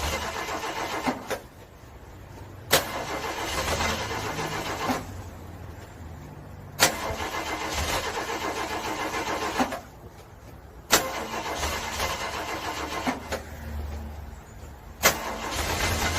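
A car engine cranking on the starter in repeated short attempts in the cold, each beginning with a sharp click and lasting two to three seconds before it stops, about every four seconds, without catching and running.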